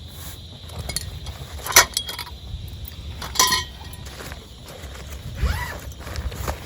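Camping gear being handled, with two sharp metallic clinks about a second and a half apart among rustling and footsteps.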